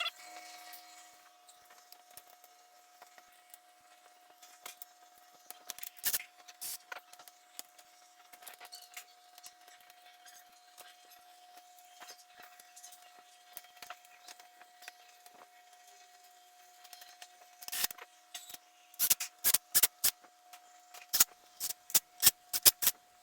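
Metal hand tools clicking and clanking during oil-change work, scattered at first, then a quick irregular run of loud sharp clicks over the last five seconds. A faint steady hum runs underneath.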